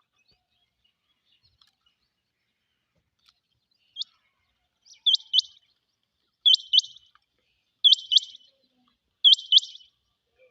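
Rain quail calling: after a single note about four seconds in, four quick two-note calls follow at about one every one and a half seconds, each note a sharp, high, upward-flicking whistle.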